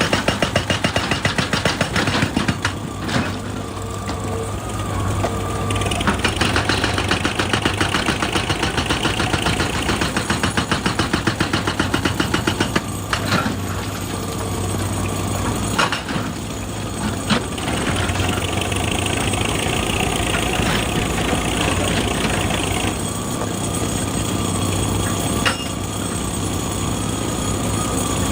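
An excavator's diesel engine runs steadily while the machine works rock. In several stretches a rapid, even pounding comes and goes, with a few sharp knocks between.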